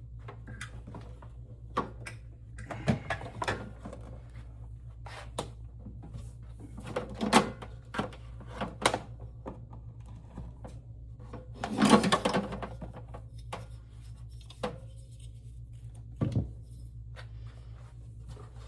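Scattered knocks and clunks of objects being handled and set down, with a louder clatter about twelve seconds in, over a steady low hum.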